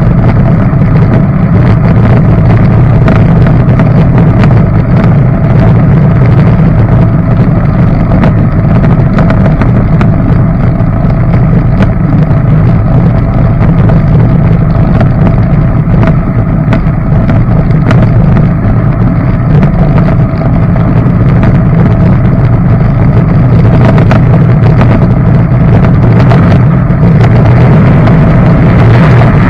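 Jet boat's engine running at steady speed under way, loud and even, with no change in pitch.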